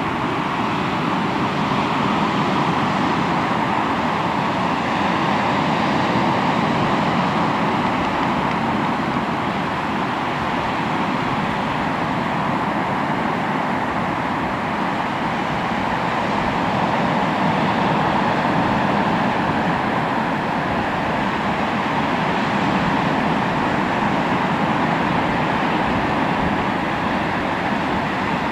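Sea waves surging onto the shore in a continuous rush of surf, swelling and easing slowly every several seconds.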